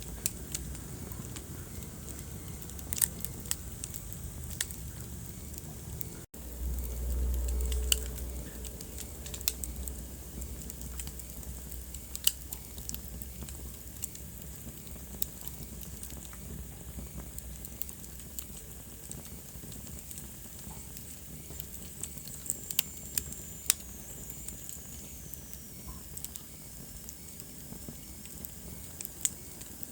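Wood fire burning in a fireplace: sharp crackles and pops scattered irregularly over a steady low rumble of the flames. About six seconds in the sound drops out for a moment, then the low rumble comes back louder for a couple of seconds.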